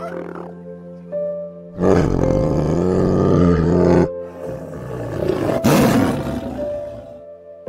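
White tiger roaring: two long, rough roars of about two seconds each, the second starting half a second after the first ends, over soft piano music.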